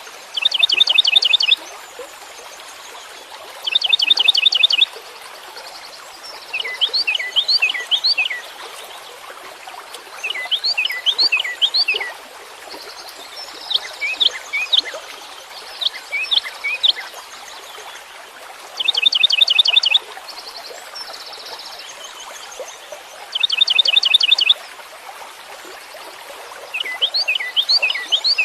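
A songbird singing in repeated phrases every three to four seconds: some are a fast trill of quick falling notes lasting about a second, others a slower run of five or six falling notes, over a steady background hiss.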